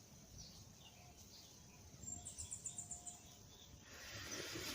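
Faint bird chirping: a quick run of short, high chirps about two seconds in, then a sharp click near the end.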